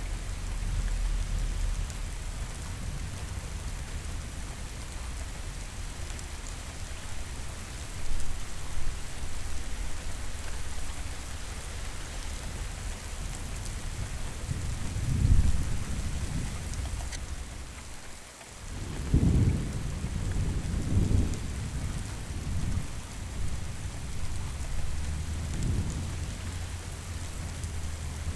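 Steady heavy rain with rolling thunder: deep rumbles swell up about halfway through and again several times in the second half.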